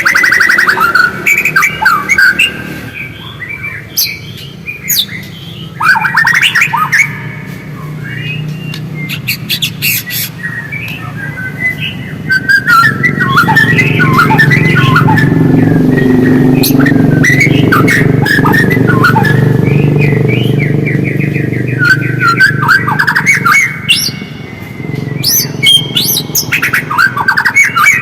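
White-rumped shama singing a rapid, varied chattering song of chirps and trills. A steady low rumble runs underneath through the middle of the stretch.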